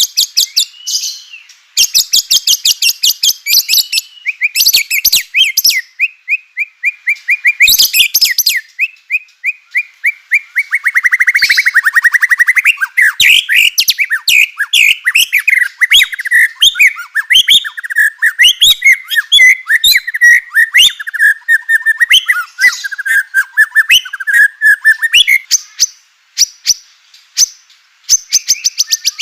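White-rumped shama singing a fast, varied song of rattling clicks and whistled notes, with a rapid buzzy trill about eleven seconds in: the aggressive 'kretekan' rattle that keepers use to provoke other shamas.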